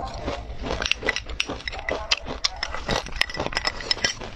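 Close-miked crunching and crackling as a mouthful of fried perilla seed, flaxseed and chili crisp is chewed, in many quick, irregular crisp cracks.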